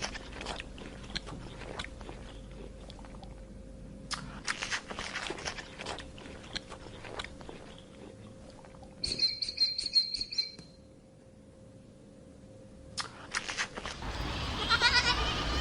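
An animal chewing crunchy food in several spells of crisp crunches. About nine seconds in there is a short, high, trilling chirp, and near the end, after a cut, a bleat begins.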